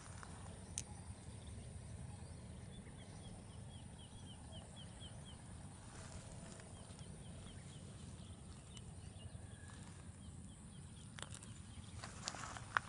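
Faint runs of short, falling, high whistled notes from a bird, about four a second, heard twice over a low steady background rumble. A few sharp clicks come near the end.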